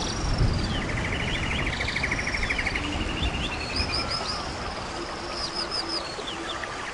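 Birds singing and calling: a fast trill in the first half, then series of high, down-slurred whistled notes, over a steady background hiss, with a low rumble near the start.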